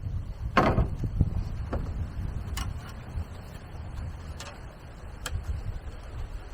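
A handful of sharp, irregularly spaced knocks or taps, the loudest a little over half a second in, over a steady low rumble.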